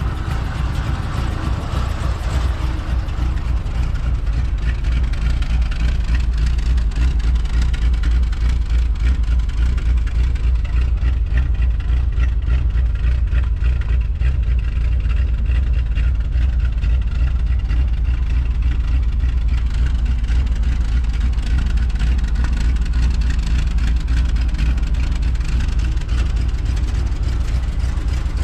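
Ford F100 pickup's V8 engine idling steadily from a cold start, left running to warm up.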